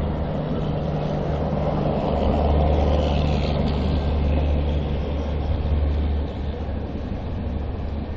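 Running noise of a Mumbai suburban EMU local train, heard from inside a coach: a steady low electric hum and the rumble of wheels on the track, with the coaches of the Rajdhani Express passing close on the next track. The low hum drops away about six seconds in and the whole sound gets a little quieter.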